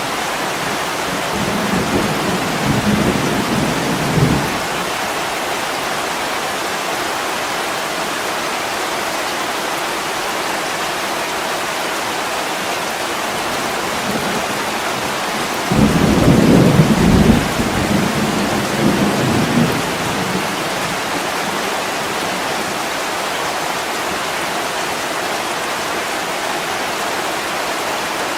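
Heavy rain hissing steadily on a window, with two low rolls of thunder: a softer one early and a louder one about halfway through that fades over a few seconds.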